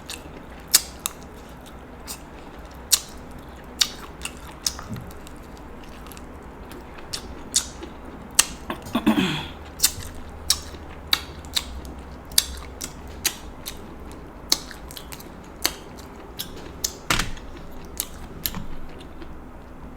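Close-miked eating of king crab meat: chewing with sharp, irregular wet mouth clicks and smacks, and a short voiced sound about halfway through.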